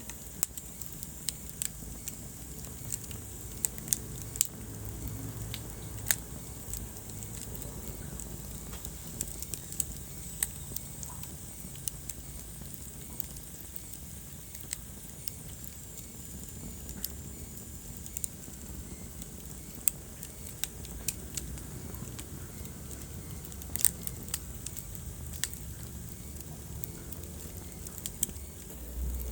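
Wood fire burning in a fireplace: irregular sharp crackles and pops, a few louder than the rest, over a low steady rumble of the flames.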